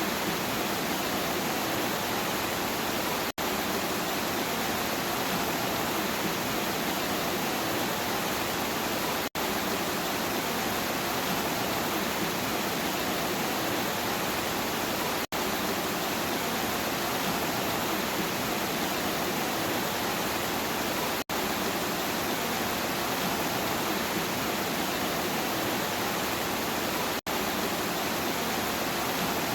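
Steady rain falling: an even, dense hiss with no thunder. The sound cuts out for an instant about every six seconds.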